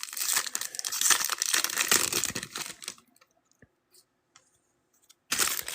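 Foil trading-card pack wrapper being torn open and crinkled, a dense crackling for about three seconds, then a short burst of crinkling again near the end.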